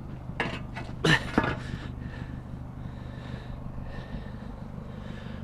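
A car engine idling steadily, with a cluster of sharp knocks and clatter about a second in as a heavy object is handled.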